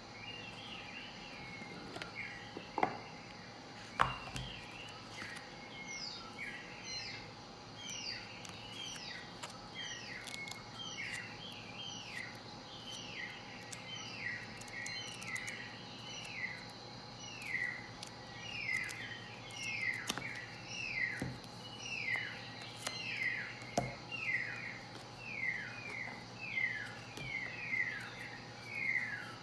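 A bird chirping over and over, short falling chirps at about two a second that grow louder as it goes on. A few faint knocks of the card box and cards being handled.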